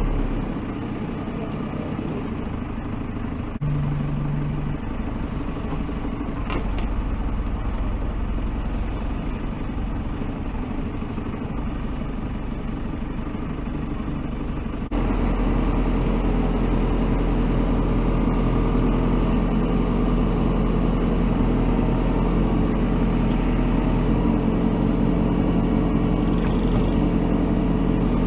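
Diesel engines of construction machinery running steadily, with a short steady tone about four seconds in. The sound jumps abruptly louder about halfway through.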